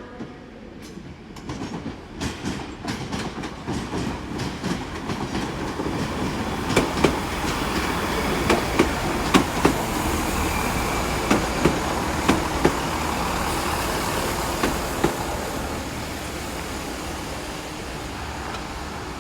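Class 166 Turbo diesel multiple unit running through the station, its wheels clacking over rail joints and points. The noise builds over the first several seconds and eases off near the end.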